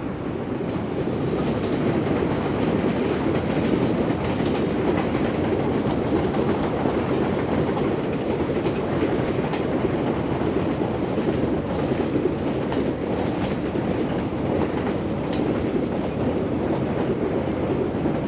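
QJ steam-hauled train running past, its wheels clattering over the rail joints in a steady din that builds over the first couple of seconds.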